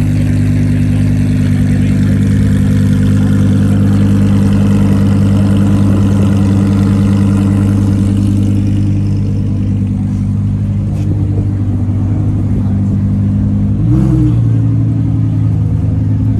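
Car engine idling loudly and steadily, with one short blip of the throttle about fourteen seconds in before settling back to idle.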